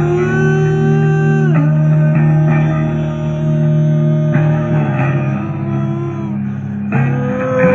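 Instrumental music led by guitar over a steady bass line, with held notes that bend in pitch, without singing.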